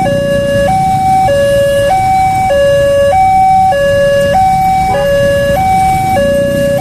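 Electronic railway level-crossing warning alarm sounding, a high and a low tone alternating about every 0.6 seconds, over a steady low rumble.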